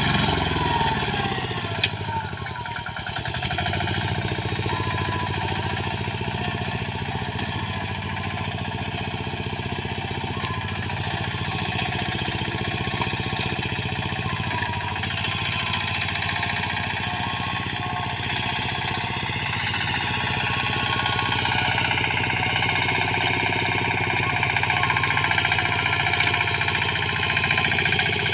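Engine of a wheat reaper-binder running steadily. It dips briefly in pitch and level about two seconds in.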